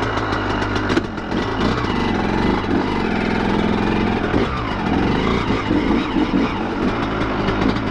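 Two-stroke dirt bike engine running steadily, its pitch wavering up and down a little midway.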